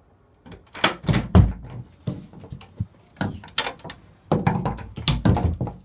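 A run of clunks, knocks and clicks like a door or lid being handled and shut, with the loudest thump about one and a half seconds in and a close cluster of knocks near the end.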